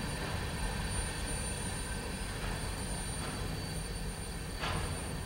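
Freight train's covered hopper cars rolling past, giving a steady low rumble of steel wheels on rail with a few knocks, the loudest near the end.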